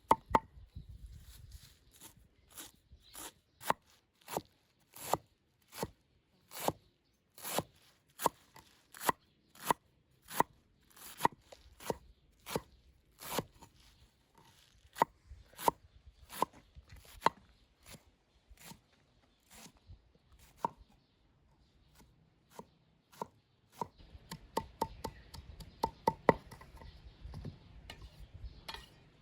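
Knife chopping food on a cutting board in steady strokes, about two a second, turning into quicker, lighter strokes near the end.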